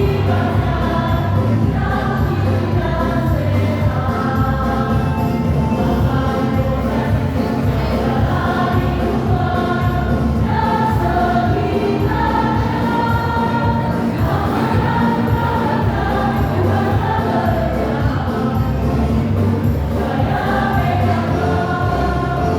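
A choir singing a song, many voices together at a steady, full level.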